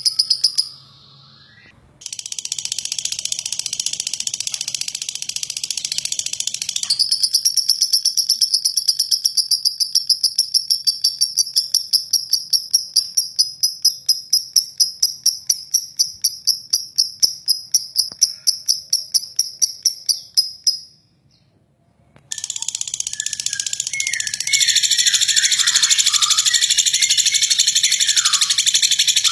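Lovebird singing its long, rough rattling trill ('ngeklek'), a fast run of high, clicky pulses. Two brief silent breaks split it into separate stretches, and near the end chirps and short falling whistled notes join the rattle.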